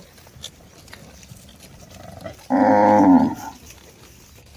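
A cow moos once, a short loud call a little past the middle, with only low background before it.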